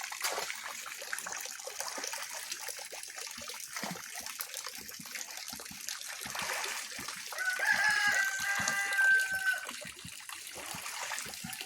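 A rooster crows once, one long call of about two seconds starting a little past halfway through. Water splashes and trickles steadily underneath.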